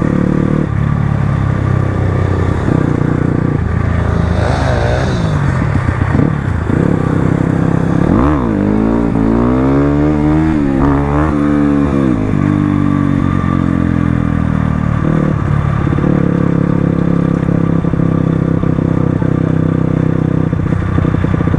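Crossfire RM250 dirt bike engine running under way, its revs rising and falling several times near the middle of the stretch.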